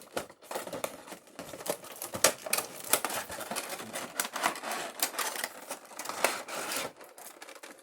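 Packaging of a collectible figure being opened and handled by hand: a busy run of irregular clicks, taps and rustles.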